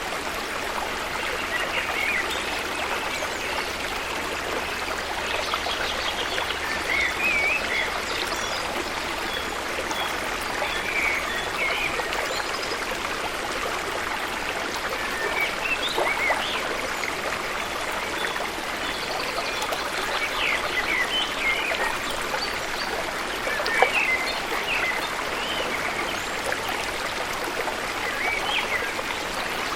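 Steady rushing of flowing water from a stream or waterfall, with birds chirping over it throughout. There is a single sharp click about three-quarters of the way through.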